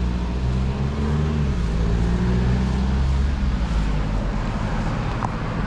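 A motor vehicle's engine accelerating on the street close by: its note rises, drops about a second and a half in as if changing gear, then holds and fades after about three and a half seconds, over general traffic noise.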